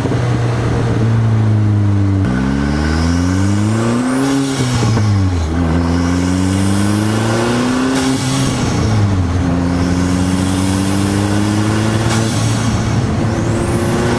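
Turbocharged 1.8-litre four-cylinder engine of a 2002 VW Jetta with a K04 turbo and open downpipe cutout, pulling hard: its pitch climbs, drops sharply and climbs again several times, as in revving through gears. A faint high whistle rises along with some of the pulls.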